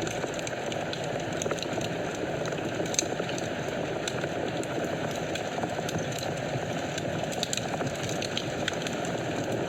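Wood fire burning in a fireplace: a steady rush of flames with scattered small crackles and pops, one sharper pop about three seconds in.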